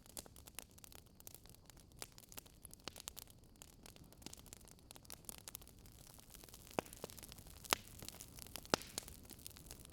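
Wood fire crackling: irregular small snaps and pops over a soft hiss, with a few louder pops in the second half.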